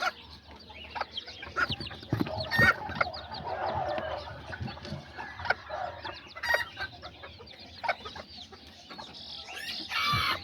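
Kikiriki bantam chicks peeping busily, with hens clucking among them and a few sharp knocks.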